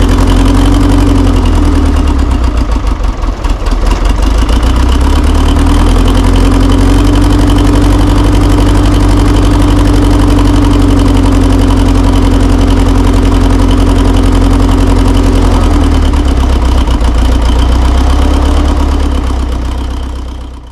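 Wheel loader's diesel engine idling cold just after a cold start at −20 °C without preheating, with a brief dip in level about three seconds in.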